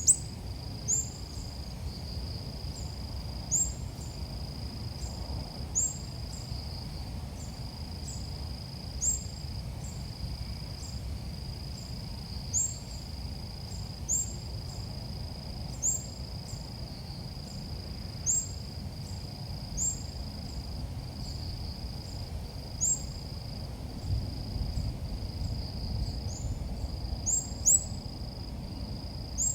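Sooty-headed bulbul calls used as a lure. Short, high chirps repeat about every two seconds over a steady high whine and a low rumble.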